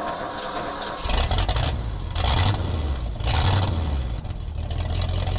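A motor vehicle's engine running, with a deep rumble that sets in about a second in and swells in loudness a few times, over a steady rushing noise.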